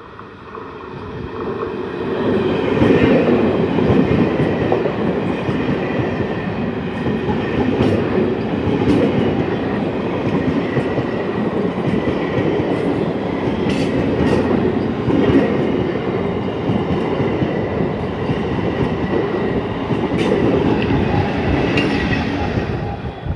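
Electric multiple unit (EMU) local train passing close by at full speed: a loud rushing rumble of steel wheels on rail with repeated sharp clacks over the rail joints. It builds over the first couple of seconds as the train arrives and falls away near the end as the last coaches go by.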